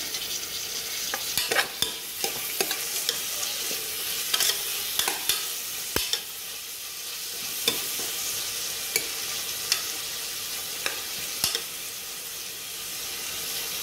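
Sliced onions with ginger and garlic frying in oil: a steady sizzle, with many short clicks and scrapes as a steel ladle stirs them against the metal pot.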